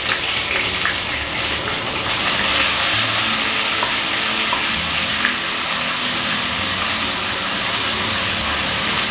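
Ginger-garlic paste sizzling in hot oil with whole spices in a kadhai, stirred with a wooden spatula; the sizzle grows louder about two seconds in.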